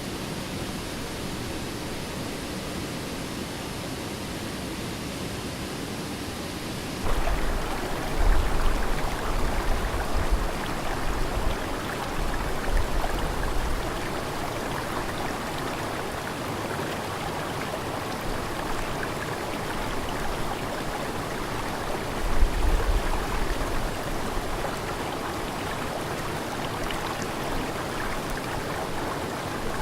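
Steady rush of falling and flowing water from a waterfall and stream. About 7 s in it jumps abruptly to a louder, fuller rush, with a few brief low rumbles.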